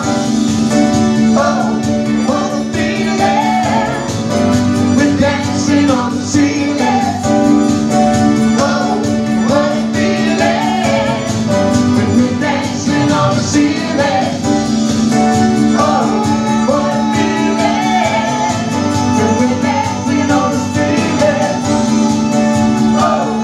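Soul and funk band music with singing over a steady, sustained low note.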